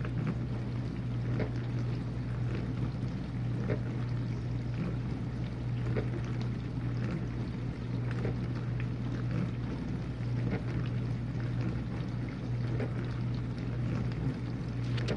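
Whirlpool dishwasher in its rinse cycle: the circulation pump hums steadily while water sprays and splashes inside the tub in small irregular spatters.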